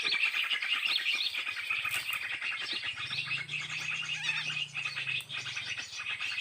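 Dense, rapid chirping of many small birds, a continuous noisy chatter of short high notes, with a low steady hum joining in about halfway through.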